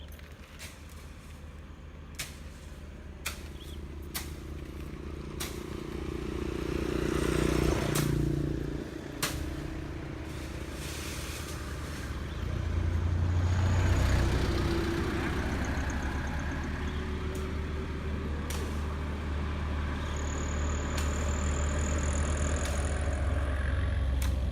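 A low engine runs steadily and gets louder about halfway through, with scattered sharp clicks and snaps.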